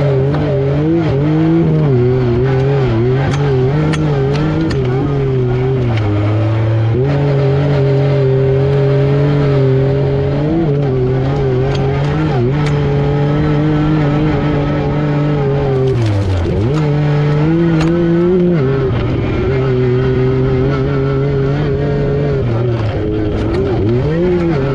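Yamaha YXZ1000R SS side-by-side's inline three-cylinder engine running hard, its pitch holding steady for long stretches and then dipping and climbing again as the throttle is lifted and reapplied, most sharply about sixteen seconds in and again near the end. A few short knocks sound over the engine.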